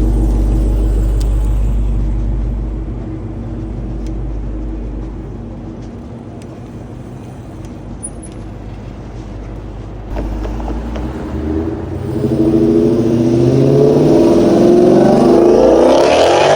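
Truck engine running steadily at first, then from about twelve seconds in revving up hard as it pulls away, its pitch rising and the sound loudest near the end.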